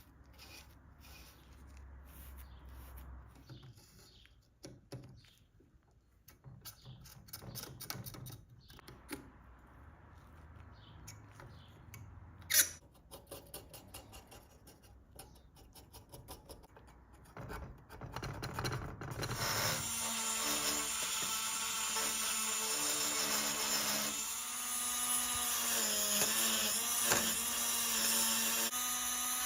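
Quiet handling and clicking of tools and parts, with one sharp knock about twelve seconds in. About twenty seconds in, an electric power tool such as a drill starts up and runs steadily and loudly, its pitch shifting slightly as it works.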